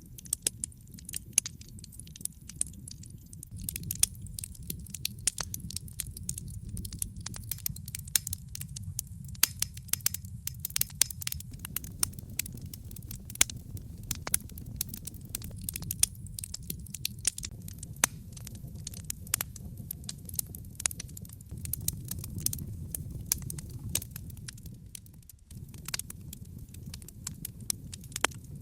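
Wood fire burning in a fireplace: logs crackling with frequent sharp pops over a low, steady rumble.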